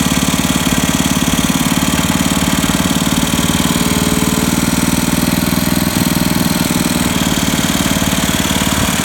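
Wheel Horse Work Horse garden tractor engine running steadily at a low speed, with a rattling knock in its note.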